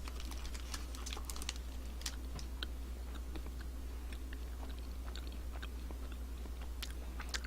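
A person chewing a bite of Nature Valley Sweet & Salty peanut granola bar: small crunchy clicks and crackles, thickest in the first couple of seconds, then sparser. The bar is firm rather than chewy. A steady low hum runs underneath.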